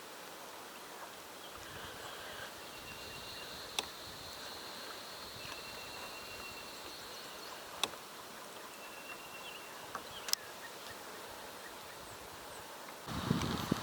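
Quiet outdoor ambience on open water: a faint short high call repeats every few seconds over a steady hiss, with a few sharp clicks. Near the end a louder rushing noise comes in.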